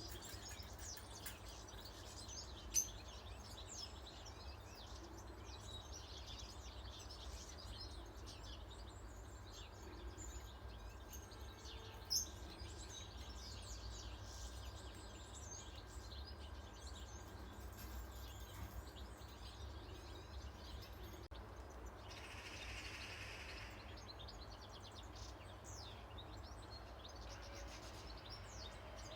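Many small wild birds chirping and tweeting over a steady low rumble, with two sharp clicks, about three and about twelve seconds in.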